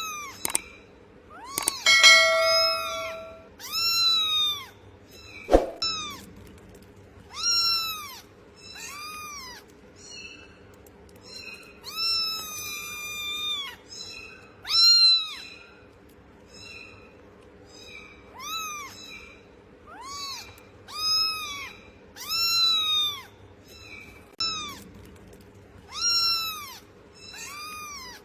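Cat meowing over and over, one rising-and-falling call every second or two, over a faint steady hum. A sharp knock comes about six seconds in.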